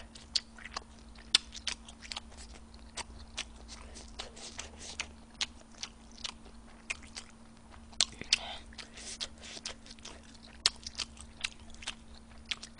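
Close-miked chewing of tteokbokki rice cakes: many sharp, irregular wet mouth clicks and smacks, several a second, over a faint steady low hum.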